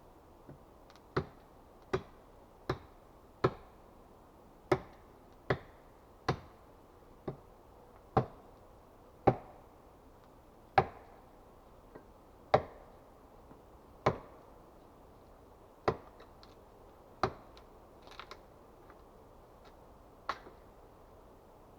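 Axe chopping wood: a series of about sixteen sharp strikes, roughly one a second at first and further apart toward the end.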